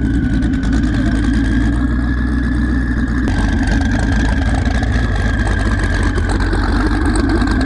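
Dodge Challenger R/T engine running steadily and loudly, close by.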